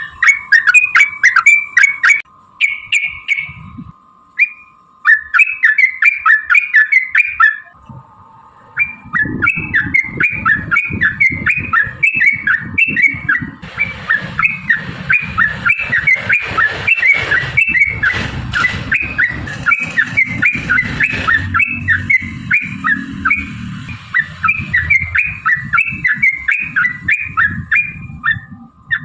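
Yellow-vented bulbuls singing in long, fast runs of short chirpy notes, about three to four a second, with a short break about eight seconds in. From about nine seconds a low rumbling noise runs under the song.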